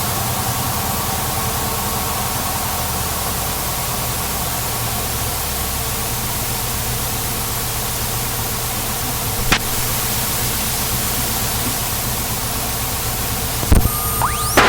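Citabria light aircraft's engine idling steadily, heard as a low hum under a loud, even hiss. There is a sharp click about two-thirds through and a short knock near the end.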